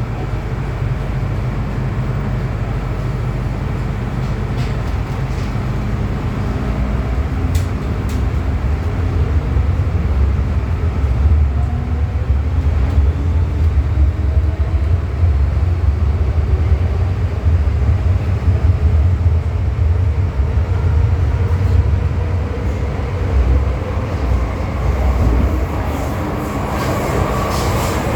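MTR M-Train metro train running with a heavy steady low rumble, under a faint motor whine that rises slowly in pitch as the train gathers speed.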